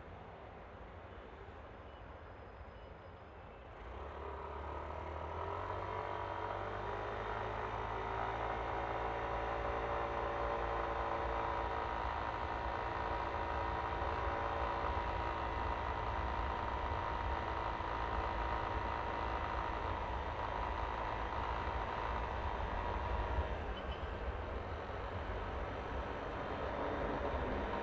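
Yamaha Aerox scooter's 155 cc single-cylinder engine pulling away from low speed about four seconds in, its pitch rising as it accelerates, then running steadily at cruising speed. It eases off briefly near the end before picking up again.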